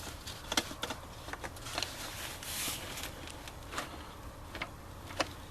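Scattered light clicks and knocks of plastic being handled, with a short rustle about halfway: an aftermarket projector headlight housing being wiggled into its mounting bracket.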